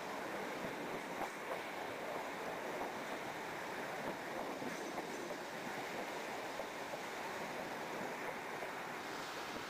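Steady running noise of a train rolling slowly, heard from an open carriage window: an even rush of wheels on rail and moving air, with a few faint clicks.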